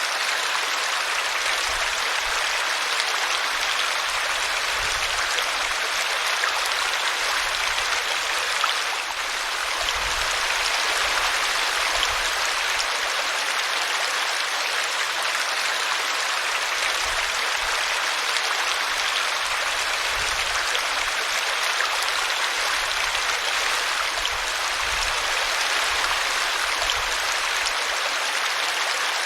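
A small brook running steadily over a tree root: an even, continuous rush of flowing water.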